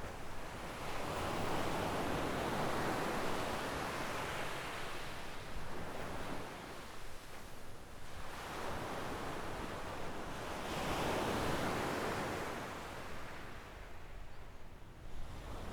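Small waves breaking on a sandy beach and washing up the shore in two slow swells of surf, each building and then fading, about eight seconds apart.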